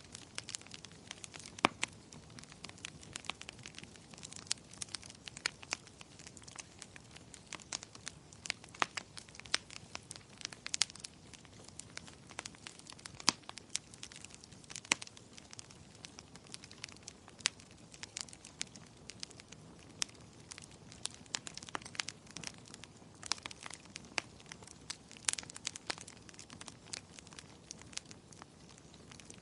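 Fireplace fire crackling: irregular sharp pops and snaps, some loud and most small, over a low steady hiss.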